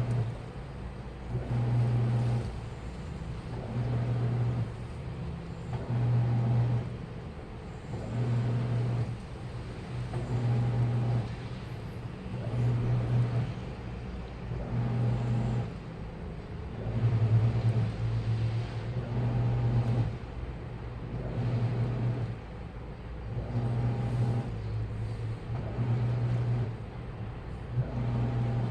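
Washing machine running, its motor turning the drum in short bursts about every two seconds, each burst with a low hum.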